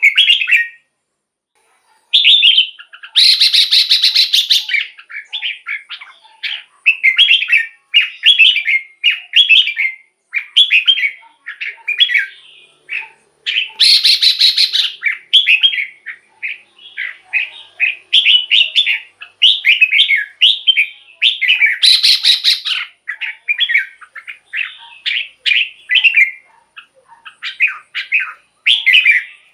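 Red-whiskered bulbul singing: short, bright whistled phrases repeated one after another. Three louder, harsher rasping bursts come in, about three seconds in, near the middle and about two-thirds through.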